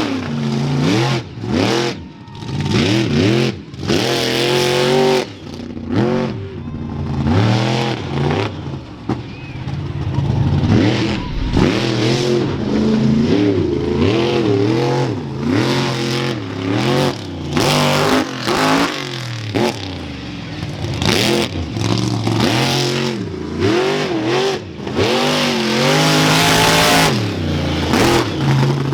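Monster truck engine revving hard, its pitch rising and falling over and over as the throttle is opened and lifted, with brief drops in level between pulls.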